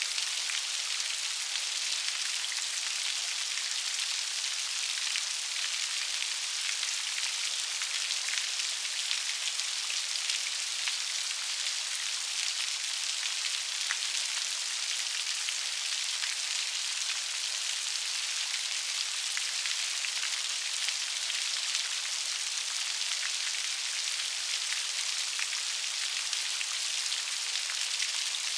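Steady rain falling, a dense even hiss of many small raindrops with fine patters throughout and no low rumble.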